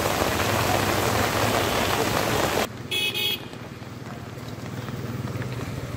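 Steady loud rush of heavy rain that cuts off abruptly a little under three seconds in. A brief vehicle horn toot follows, then a quieter hiss of rain over a low steady hum.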